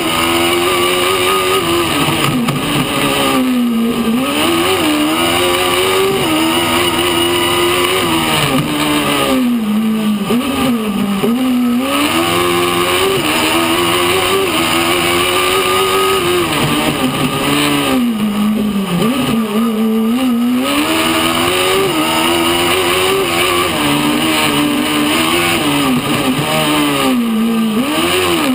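Fiat 600 racing prototype's engine heard from inside the cockpit, running hard under load with the revs repeatedly climbing and dropping away; the revs fall lowest four times, roughly every eight seconds.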